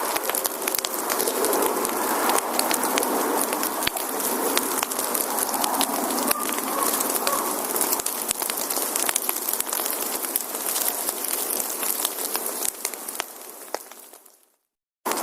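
Firewood burning in a campfire, crackling with many small pops and snaps over a steady hiss; it fades out near the end.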